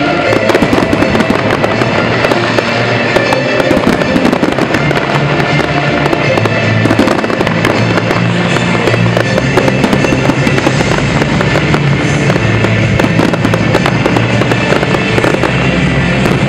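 Fireworks display going off continuously: rapid, dense crackling with many sharp pops and bursts, over loud music.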